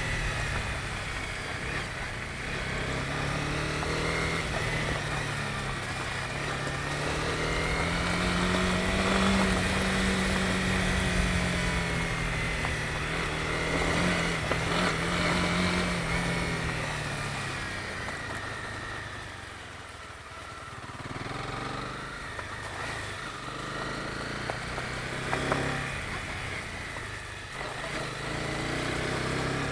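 Honda CB250R's single-cylinder engine running on the move, its pitch rising and falling as the throttle opens and closes. About two-thirds of the way through it drops lower and quieter as the rider eases off, then picks up again.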